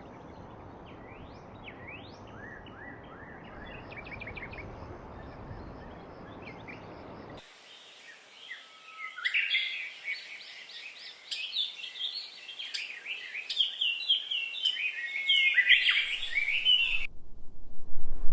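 Birds chirping. At first they are faint over a steady hiss of background noise. About seven seconds in the hiss drops away and a louder, busier run of chirps takes over, which cuts off abruptly about a second before the end.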